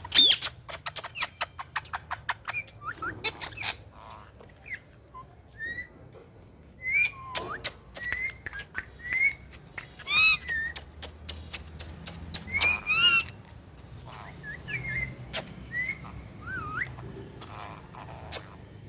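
Indian ringneck parakeet vocalising: short rising and falling whistles and chirps with a few harsh, screechy calls, the loudest right at the start. A quick run of sharp clicks fills the first few seconds.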